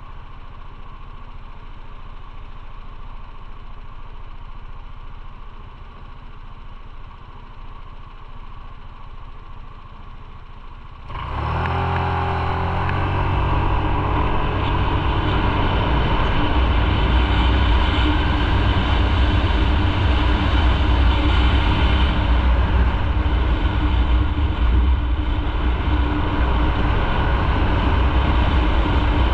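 Motorcycle engine idling at a standstill, then about eleven seconds in it pulls away and accelerates through the gears, settling into loud steady riding with engine and wind noise.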